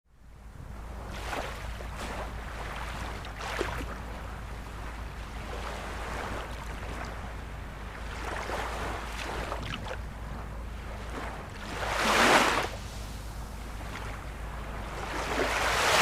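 Ocean surf washing in continuously, with a larger wave breaking about twelve seconds in and another building to a peak at the end. A steady low rumble runs underneath.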